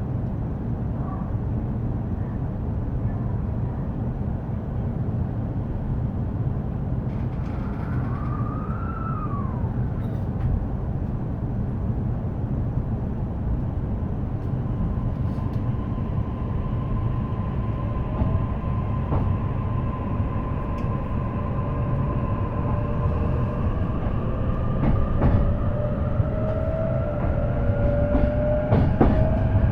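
Inside an E233-series electric commuter train: steady rumble of the wheels on the rails with a few sharp clicks, and from about halfway through the traction motor whine climbing slowly in pitch as the train picks up speed.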